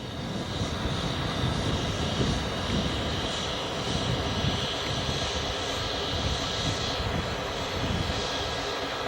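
Diesel locomotive engines idling with a steady, even drone.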